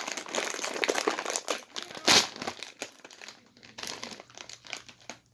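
Lay's Cheddar Jalapeño chip bag crinkling as it is handled, with one louder crackle about two seconds in, then sparser, fainter rustles.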